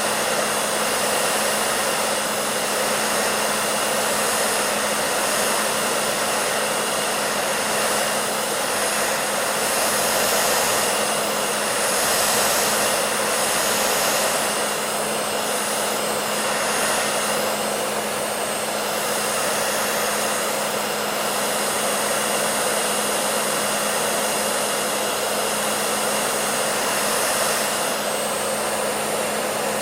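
Electric hair dryer running continuously: a steady rushing blow of air over a constant motor hum and faint high whine.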